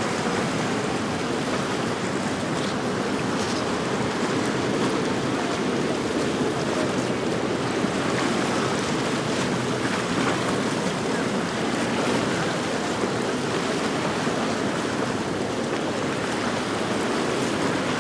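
Steady rush of waves and churning water at an inlet, an even noise with no breaks.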